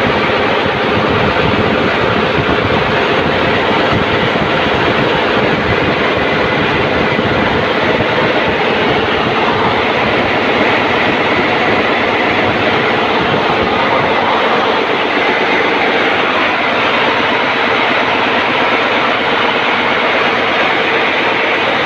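Daihatsu 6DL-19 six-cylinder diesel auxiliary engine, the ship's generator set, running steadily. It is a loud, unbroken machinery noise inside the engine room.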